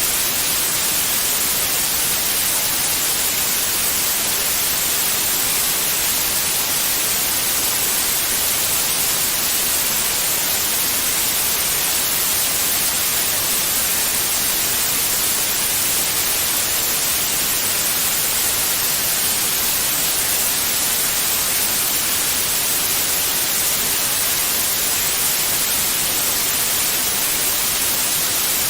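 Steady white noise: an even, unbroken hiss, strongest in the high frequencies, with no change in level.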